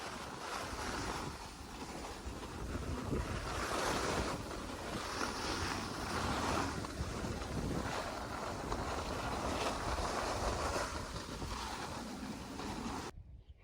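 Wind blowing hard over the microphone, rushing and buffeting in swells every second or two, then cutting off suddenly near the end.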